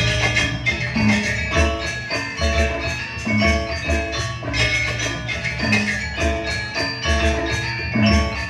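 Gamelan accompanying a janger dance: bronze metallophones playing a fast, repeating interlocking figure over regular low drum strokes.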